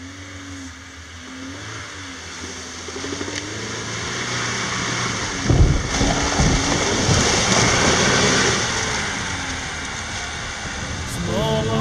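Lada Niva's engine revving as the car churns forward through deep muddy ruts, growing louder as it comes closer, with a cluster of heavy low thumps about halfway through.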